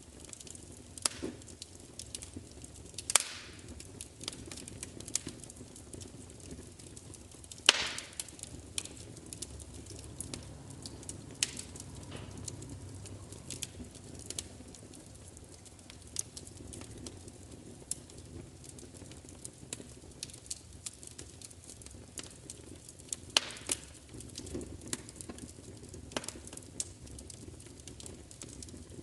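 Fire crackling: irregular sharp pops and snaps over a faint steady hiss, with a few louder pops among them.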